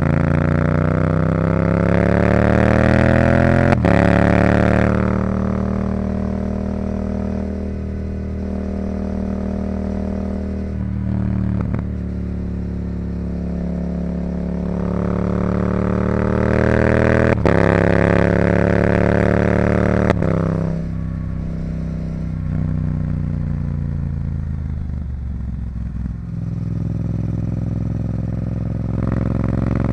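Yamaha YZF-R7's 689 cc parallel-twin engine, stage-2 tuned and breathing through a Yoshimura R77 exhaust, revving up under throttle and then falling away off the throttle, twice. Each climb in pitch ends in a short sharp click, and the revs fall for several seconds afterwards.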